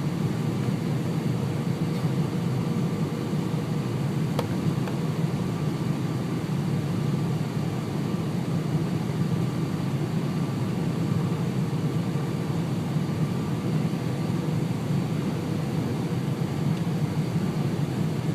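Steady airliner cabin noise on final approach: a constant low rumble of engines and airflow, with faint steady hums running through it. A single faint click about four and a half seconds in.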